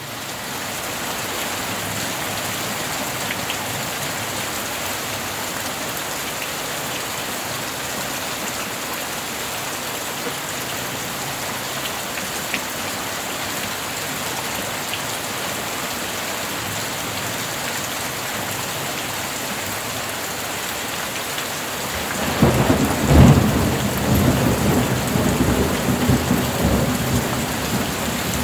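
Steady rain falling, an even hiss. After about twenty-two seconds a clap of thunder breaks in and rolls on as a low rumble.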